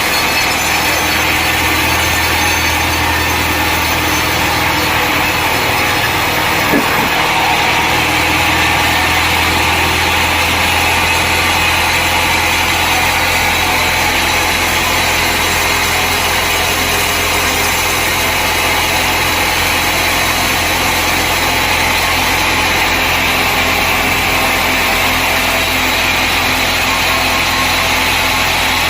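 Sawmill machinery running steadily: a steady engine hum under the noise of the saw, with one brief tick about seven seconds in.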